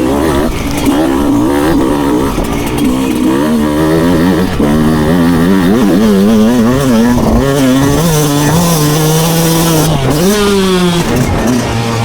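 Two-stroke motocross bike engine revving hard, its pitch wavering rapidly up and down with throttle and gear changes, with a sharp climb in revs near the end. A second, steadier engine note runs underneath.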